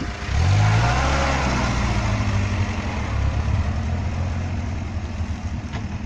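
An off-road 4x4's engine revs up sharply about half a second in and keeps pulling at the higher pitch, then eases back to a lower steady run.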